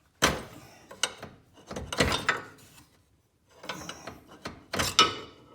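Metal tool clanking and scraping against a CV axle in about five sharp bursts, as the axle is pried and pulled at. The axle is stuck in the differential and will not pop loose.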